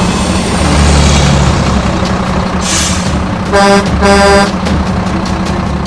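A vehicle engine running steadily with a low rumble, with two short horn toots a little past halfway.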